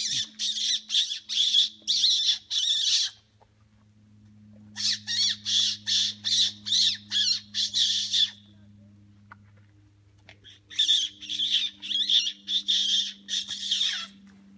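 A person making squeaking sounds with the mouth as a birding lure for small birds and owls: three bouts of rapid, high squeaks, two to three a second, each bout about three seconds long with short pauses between.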